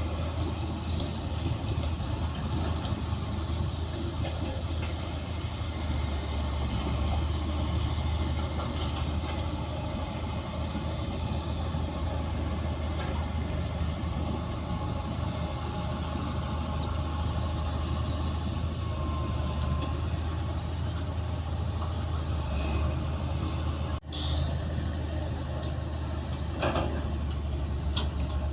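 Heavy diesel engine of earthmoving equipment running steadily with a deep low drone. It cuts out for an instant a little before the end, and a few sharp metallic clanks follow near the end.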